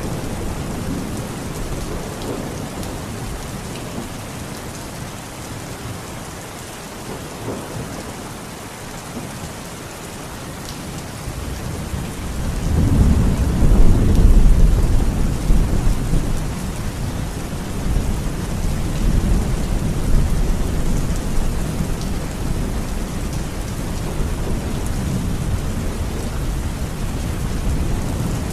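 Steady heavy rain with a roll of thunder that builds about halfway through, is loudest a couple of seconds later, then rumbles on more softly.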